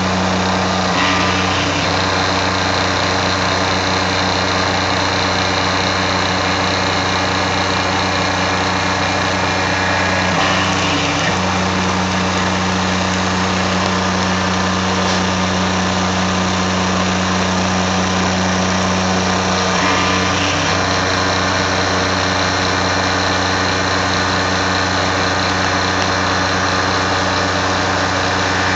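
Tormach 770 CNC mill cutting steel with a half-inch three-flute solid carbide end mill at 2,000 rpm: a steady, loud machining hum with a high whine above it. The tone shifts briefly three times, about every ten seconds, as the cutter's passes change.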